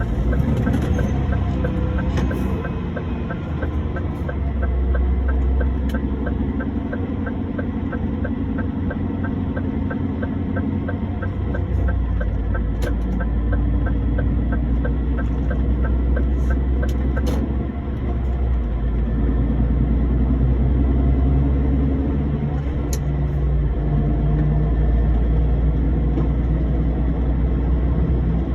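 Truck engine running with a steady low rumble, with a fast regular ticking over roughly the first twelve seconds and a few sharp clicks later.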